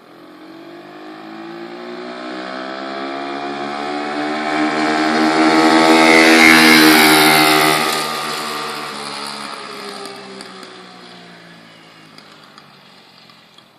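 Pocket bike's small engine running as it rides toward and past the microphone: it grows louder, is loudest about six to seven seconds in, then fades away, its pitch dropping slightly as it goes by.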